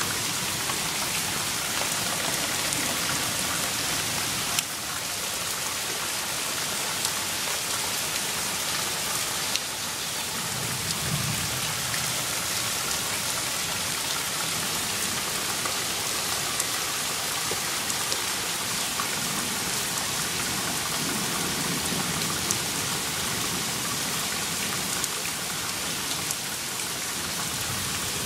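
Steady rain falling on a flooded yard: an even hiss of rain, with scattered sharper ticks of single drops.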